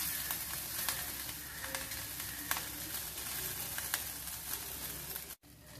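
Butter sizzling and crackling under stuffed dabeli buns toasting on an iron tawa, with scattered sharp pops. The sound cuts off suddenly near the end.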